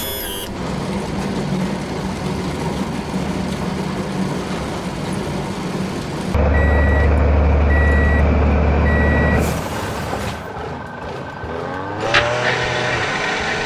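Truck engine running steadily, then a louder low rumble with three reversing beeps about a second apart in the middle. Near the end, a few short sounds that glide in pitch.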